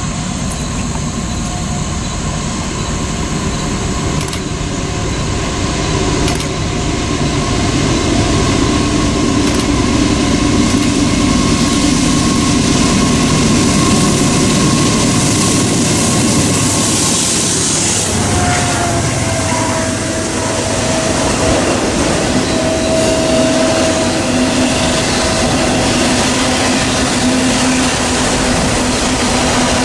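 Norfolk Southern train rolling past: a steady loud rolling rumble with thin, steady squealing tones over it. A new, lower squeal comes in about two-thirds of the way through.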